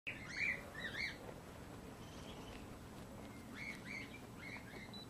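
A bird calling outdoors in short arched chirps, a quick cluster of notes in the first second and another run of chirps in the second half.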